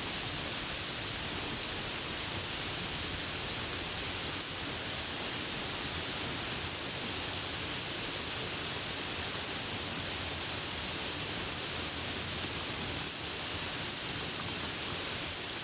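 Steady heavy rain falling, an even hiss with no thunder and no change in strength.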